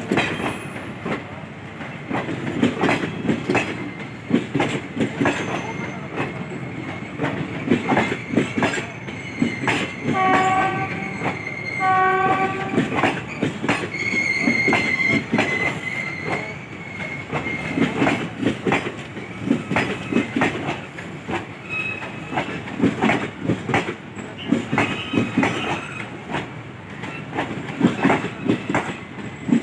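Express passenger train running past at speed, its wheels clattering steadily over the rail joints. Two short horn blasts sound about ten and twelve seconds in, followed by a thin high squeal for a few seconds.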